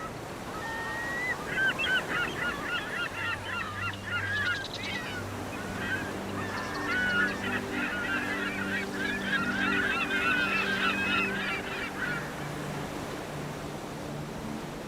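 Many overlapping animal calls that waver up and down in pitch, with a couple of quick rattling click runs, over a soft sustained ambient music drone. The calls fade out about twelve seconds in.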